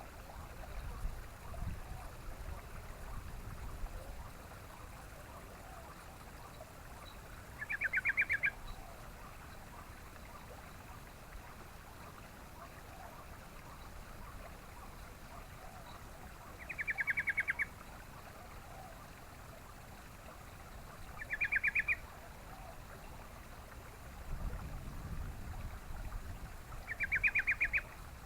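Yellow-vented bulbul calling: four short, rapid bubbling phrases, each under a second, spaced several seconds apart, over a faint low rumble.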